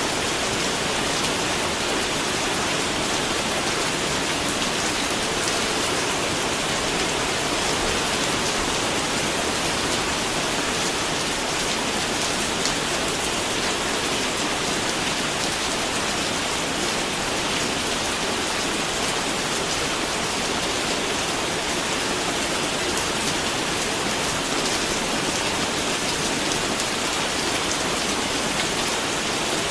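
Steady heavy rain falling, an even hiss of many drops spattering on a surface.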